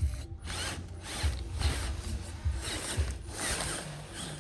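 Small electric motors and gearboxes of radio-controlled construction models whirring in surges, with ratcheting clicks and low knocks.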